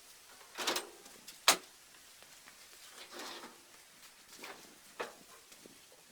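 Work-handling noises: a scrape, then a sharp single knock about one and a half seconds in, some rustling, and another knock near the end.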